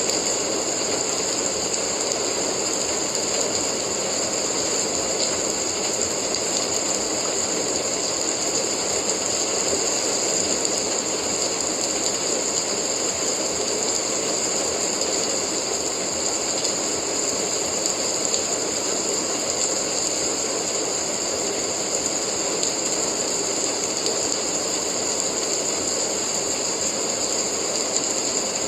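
Steady rain, an even hiss and patter that never lets up.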